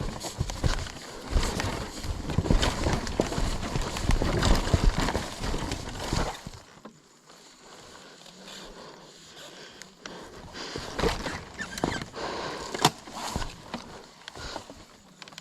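Scuffing footsteps and clattering knocks on stone steps as a dirt bike is eased down a stairway by hand. The clatter is dense for the first six seconds or so, then quieter with a few sharp clicks.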